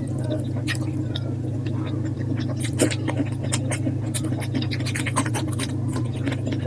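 Eating sounds played at double speed: rapid, irregular mouth smacks and chewing clicks over a steady low hum.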